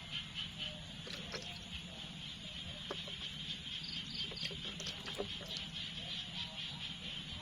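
Insects chirping steadily in a fast pulsing trill, with a few faint scattered clicks and knocks.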